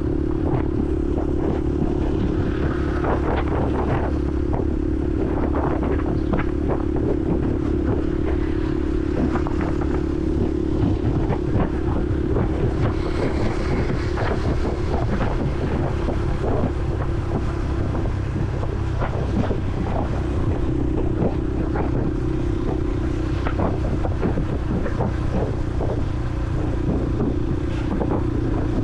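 Honda CRF150L's single-cylinder four-stroke engine running at a fairly steady pitch while riding, heard from a helmet-mounted camera with wind buffeting the microphone.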